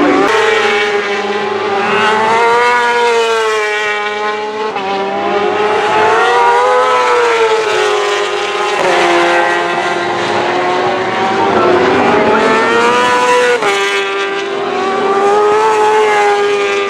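Superbike racing motorcycle's four-cylinder engine at high revs, its pitch rising and falling as it accelerates and slows. Several sudden jumps in pitch mark gear changes, one near the start and others about a third, a half and four-fifths of the way through.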